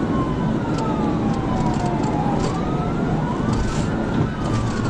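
Police siren on a wail, its pitch sliding slowly up and down about once every few seconds, over heavy engine and road noise from a car at high speed.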